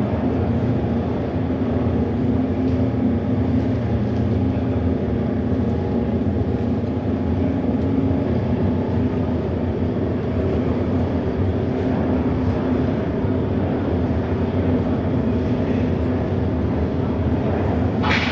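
Auto race motorcycle engines running together in a steady low drone.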